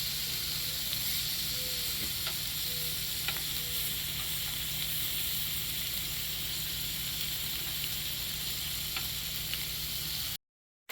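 Food sizzling on a propane Blackstone flat-top griddle: a steady frying hiss with a few faint ticks. It cuts off suddenly shortly before the end.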